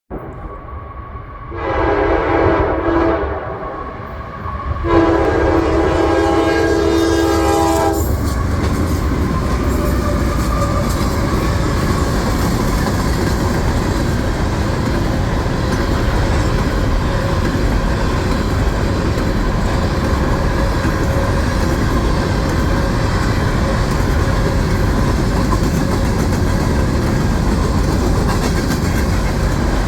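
Train horn sounding two blasts, a shorter one and then a longer one of about three seconds, followed by the train's steady rumble and clatter along the rails.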